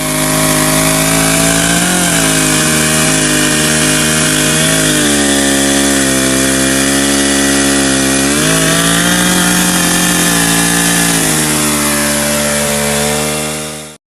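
Chainsaw running at high revs while cutting wood, its engine pitch dipping and recovering several times as the load changes. It starts and stops abruptly.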